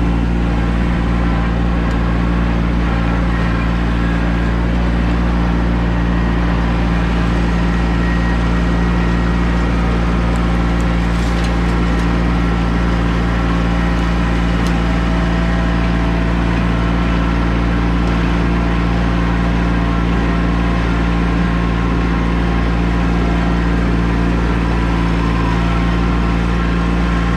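Tractor engine running at a steady, unchanging speed as the tractor is driven along, tiller attached but not yet tilling.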